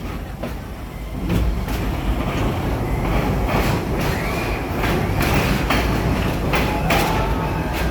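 Amusement-park passenger train rolling along the track: a steady rumble with clicks of the wheels over rail joints, coming in quick pairs. A faint wheel squeal rises and falls near the middle, and again near the end.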